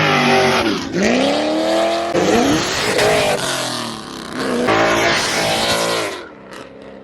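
Car engines revving hard with tyre squeal, the pitch climbing and falling, cut together in short clips that change abruptly about two, four and a half and six seconds in.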